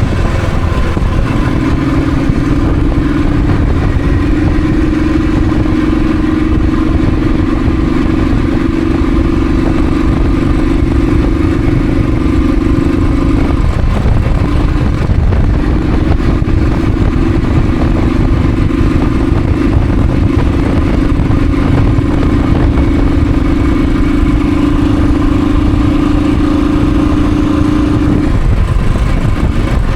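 Thunderbird motorcycle riding at a steady pace, its engine holding an even hum under a heavy low rumble of wind and road. The hum drops out briefly about halfway through, as when the throttle is eased or a gear changed, then resumes and falls away again near the end.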